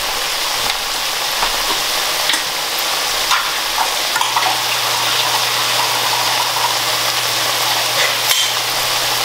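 Curry-coated root vegetables sizzling steadily in hot oil in a pot, with small scattered pops. A low steady hum joins about four seconds in.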